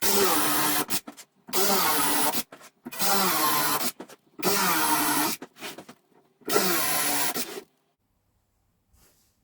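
Power drill run in five short bursts of about a second each, its motor pitch dipping under load in each run, as screw holes are drilled.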